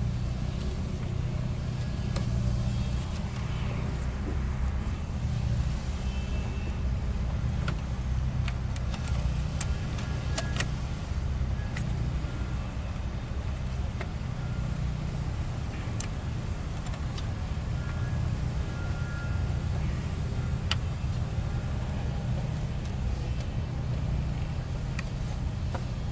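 A steady low hum runs throughout, with scattered light clicks and taps as small parts are handled around the purge valve and its electrical connector.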